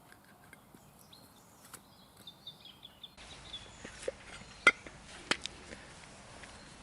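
Faint bird chirping, then several sharp clicks or taps, one clearly louder than the rest.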